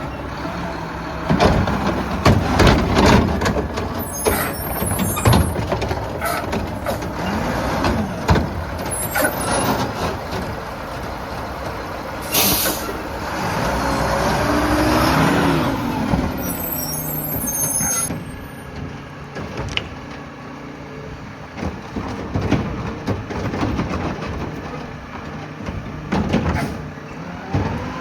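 Mack LR garbage truck working a collection stop: the diesel engine runs under repeated knocks and clanks of loading, with a short air-brake hiss about twelve seconds in and the engine note rising and falling just after it.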